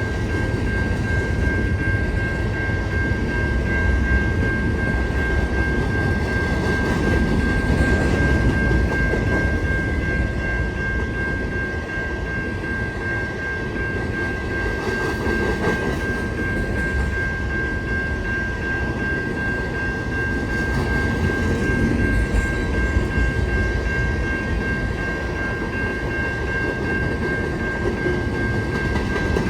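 Empty grain train rolling past: a steady rumble of wheels on rail, with one constant high-pitched ringing tone held throughout.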